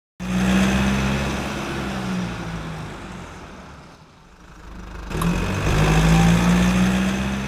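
A car engine running, loud at first and fading away, then swelling up again about five seconds in and easing off near the end.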